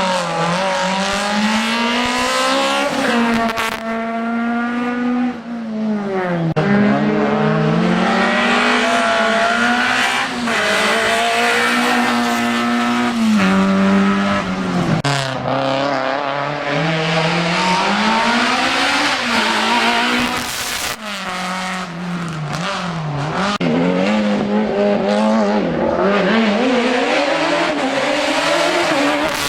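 Racing car's engine revving hard on a slalom course, its pitch climbing and dropping again every two to three seconds as it accelerates, shifts gear and lifts off for the cone or chicane sections.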